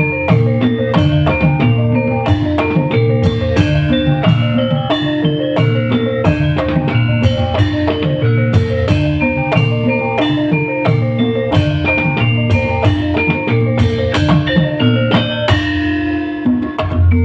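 Live band music: a drum kit keeps a steady beat under repeating plucked and mallet-like melodic notes.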